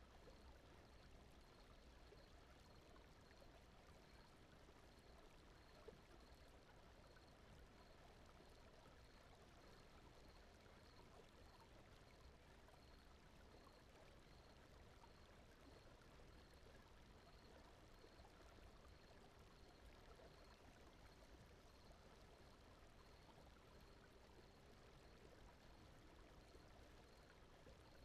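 Very faint, steady brown noise: an even hiss with no speech or music. A faint high pulsing repeats a few times a second throughout.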